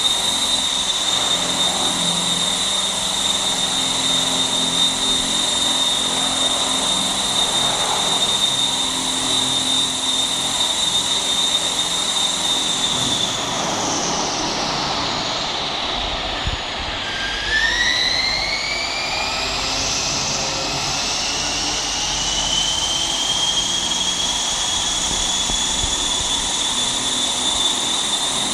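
Align T-Rex 600 ESP electric RC helicopter hovering: a steady high whine from its motor over the rush of the rotor blades. About halfway through, the whine drops sharply in pitch, then climbs back to its first pitch over the next several seconds.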